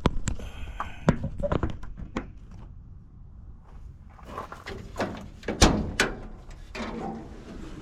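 A series of clunks and knocks as an old pickup truck is opened up, with a quieter pause partway through and the loudest knock a little past the middle.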